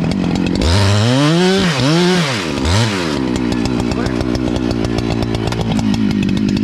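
Chainsaw cutting the downward cut of an open-face felling notch in an oak trunk: the engine revs up and drops three times in quick succession, then runs steadily at a lower speed.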